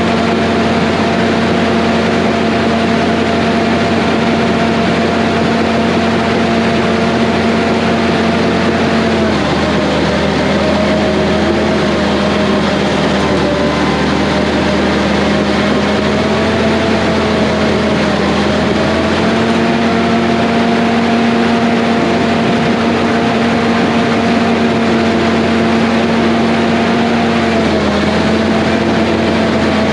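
Heavy diesel engine of an earthmoving machine running steadily at working speed. Its pitch briefly drops and recovers three times, about every nine seconds, as the machine takes on load.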